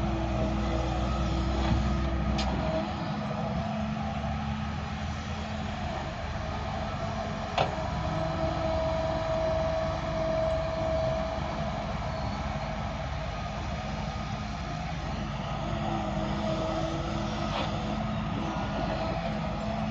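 Heavy diesel machinery running steadily, with a higher tone that rises in and out a few times and three sharp clanks, the loudest about a third of the way in.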